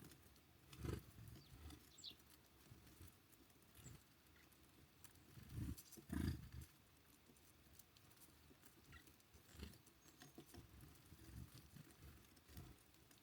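Quiet winter bird-feeder ambience: a few soft low thumps, the loudest about six seconds in, and a few faint, short high chirps from small birds.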